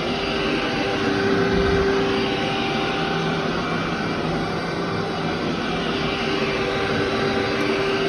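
Vacuum cleaner running steadily, a constant motor noise with a steady hum.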